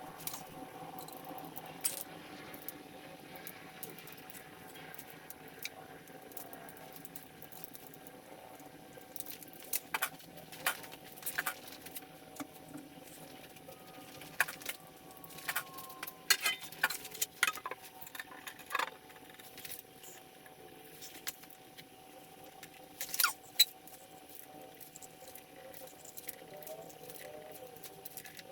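Intermittent metallic clinks and knocks of hand tools and engine parts being handled during engine reassembly, over a faint steady hum.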